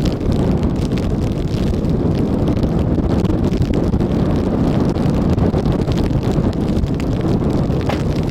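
Strong wind buffeting the microphone: a loud, steady low rumble, with scattered faint ticks of rain through it.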